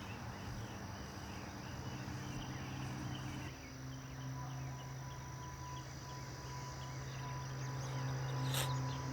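Insects chirping in a steady outdoor ambience over a low steady hum, which grows stronger about a third of the way in; a single sharp click near the end.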